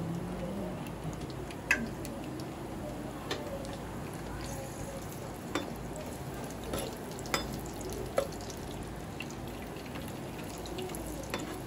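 Cut green beans frying in oil in a nonstick kadai, a steady low sizzle, while a spatula stirs them, with scattered light taps of the spatula on the pan.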